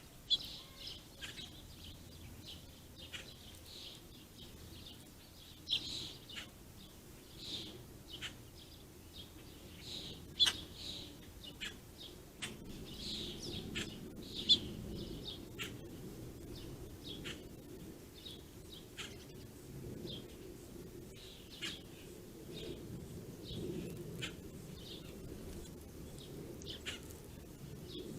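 A flock of small seed-eating birds chirping, with short, high calls coming one after another throughout and a few sharp clicks among them, over a faint low background rumble.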